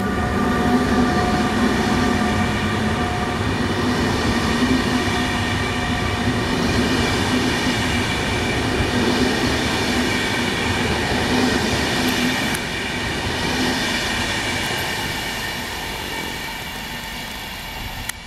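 Passenger coaches of a departing electric intercity train rolling past on the rails, with a steady rumble and several steady high-pitched tones over it. The sound fades gradually over the last few seconds as the train pulls away.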